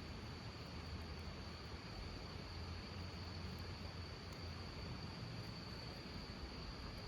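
Insects trilling steadily in one high, unbroken note, over an even hiss and a low rumble.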